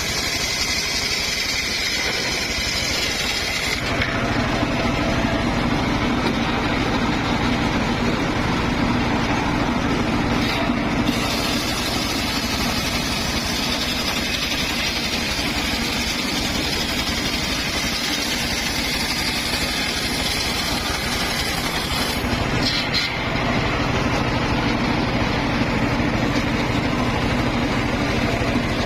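Circular saw for wood running continuously. The sound changes character about four seconds in and again about 23 seconds in.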